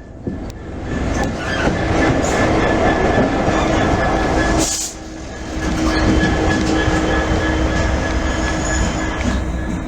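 A train running past, loud, with a steady whine over the rumble of the wheels on the rails; it swells about a second in and dips briefly midway.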